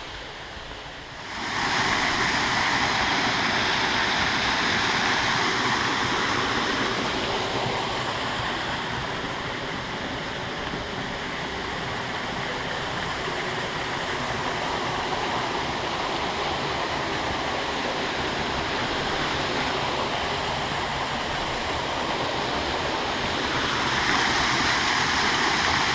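A waterfall, its water rushing steadily. It swells up about a second and a half in, eases slightly through the middle, and grows a little louder again near the end.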